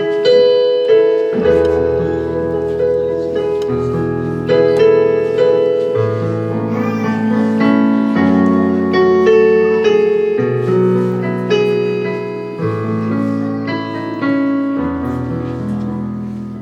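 Piano-type keyboard playing slow, sustained chords over a bass line that moves to a new note about every two seconds.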